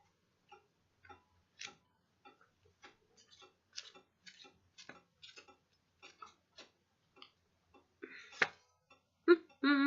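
Light, irregular clicks and taps from tarot cards being handled, a few each second, with one sharper click about eight seconds in.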